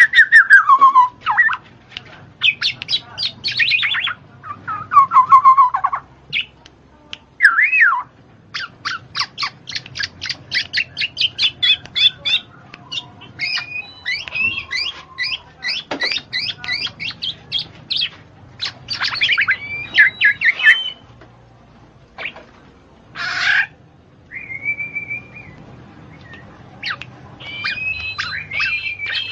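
Birds chirping and squawking in rapid runs of short calls, with a few brief pauses.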